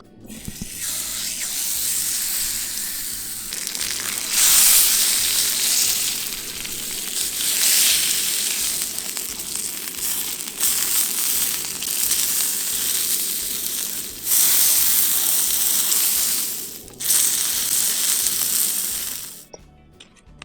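Steak sizzling as it fries in a pan on a camp stove. The sizzle swells louder several times and cuts off suddenly near the end.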